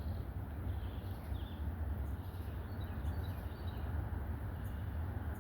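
Outdoor background with a steady low rumble and a few faint bird chirps, once about a second and a half in and again around three seconds in.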